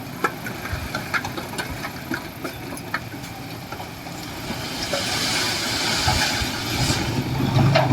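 Heavy construction machine's engine running steadily, with scattered sharp clicks and clanks. A hiss swells and fades from about five to seven seconds in, and the low engine rumble grows louder near the end.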